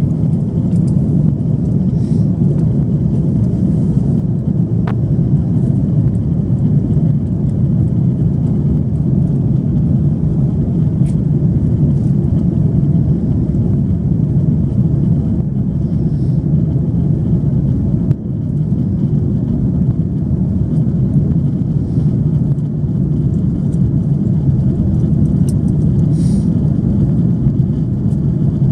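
Steady low rumble of engine and airflow noise inside an Airbus A330-300 passenger cabin in flight, with a few faint clicks.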